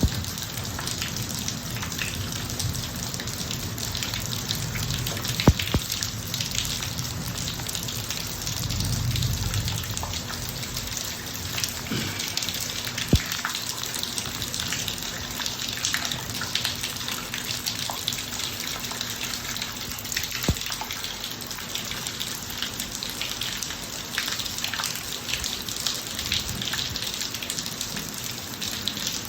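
Steady rain falling on a driveway, with a few sharp louder drop-taps standing out here and there.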